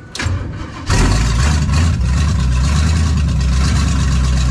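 Cold 1966 Chevy Impala 400 small-block V8 cranking on the starter for a moment, then catching about a second in and running loud and steady.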